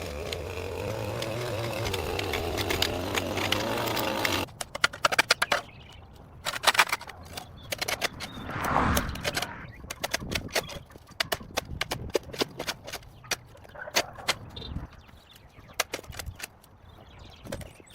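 An engine running steadily that cuts off abruptly about four seconds in, followed by a scattered series of sharp knocks and clatters.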